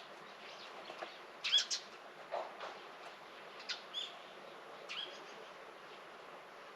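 Small birds chirping: short, sharp calls about six times in the first five seconds, then a pause, over a steady faint background hiss.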